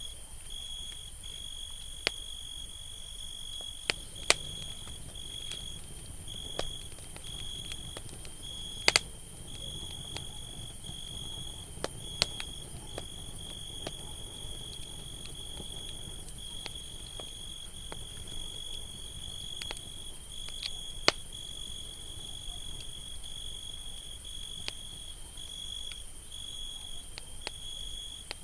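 Campfire crackling with a low, steady hiss and an occasional sharp pop, loudest a few seconds in, around the middle, and about three-quarters of the way through. Over it, crickets chirp in a steady, high trill that breaks off briefly now and then.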